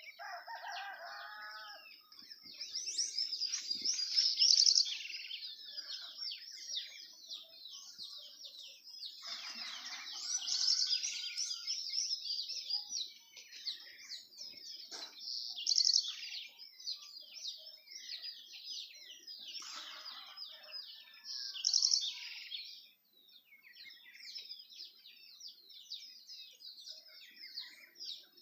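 A chorus of many small birds chirping and twittering continuously, high-pitched, with louder flurries every few seconds. A lower, fuller call sounds for about two seconds at the start.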